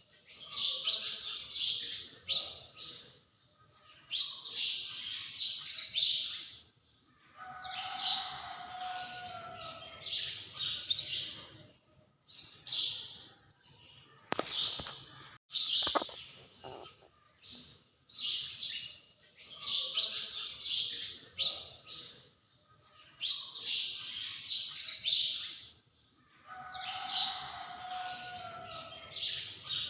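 Birds chirping: many quick, high calls in a pattern that repeats about every 20 seconds, as a looped recording does. A few sharp clicks come about halfway through.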